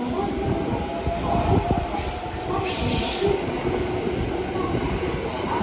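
JR West limited express electric train rolling slowly past, a steady rumble of wheels on rail with high-pitched wheel squeal, loudest about three seconds in.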